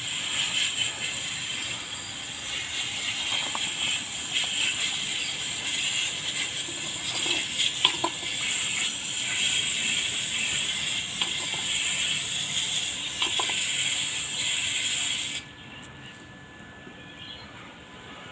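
Water spraying hard from a hose onto stainless steel, rinsing pickling paste off the welds; a steady hiss with a few faint knocks, cutting off suddenly near the end.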